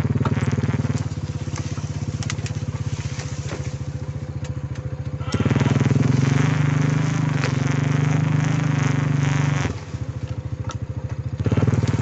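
Quad bike engine running under way, with the throttle opened about five seconds in, eased off just before ten seconds, and opened again near the end.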